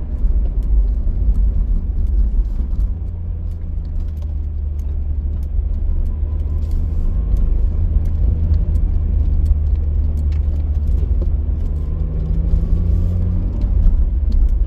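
Car driving along: a steady low rumble of road and engine noise, with a faint engine tone that comes and goes.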